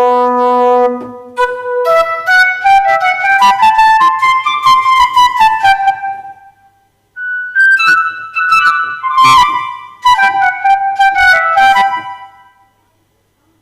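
Roland GW-8 keyboard playing a held note, then two runs of quick melodic notes with a short break between them, dying away near the end.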